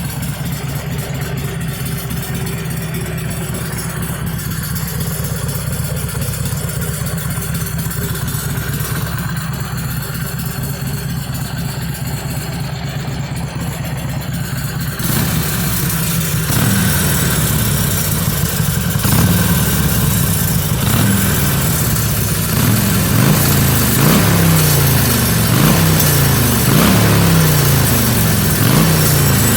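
Stock 2013 Harley-Davidson Sportster XL883N Iron's air-cooled V-twin running through its stock mufflers, idling steadily. About halfway through it gets louder, then the throttle is blipped repeatedly, each rev rising and falling roughly every second and a half.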